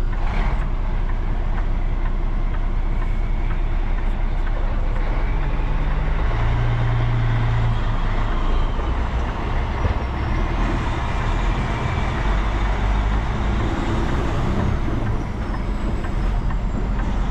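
Peterbilt 389 semi truck's diesel engine running as it moves slowly, a steady drone with a deeper engine note swelling for a couple of seconds about six seconds in.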